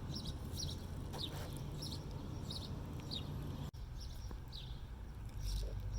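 Small birds chirping, short high notes repeated every second or so, over a steady low background hum, with a brief break in the sound a little after the middle.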